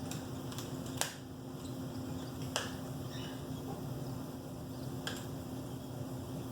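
Four sharp clicks or taps, the loudest about a second in, over a steady low hum.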